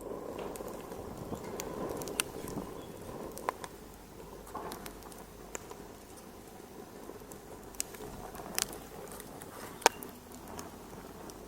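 Wood fire crackling: scattered sharp pops and snaps, a few louder ones, over a soft steady hiss.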